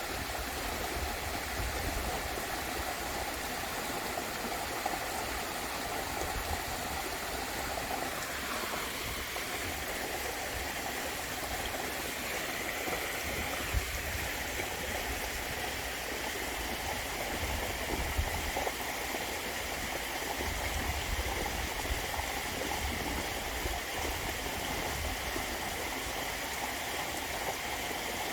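Waterfall: a steady rush of falling and running water, its tone shifting slightly about a third of the way in.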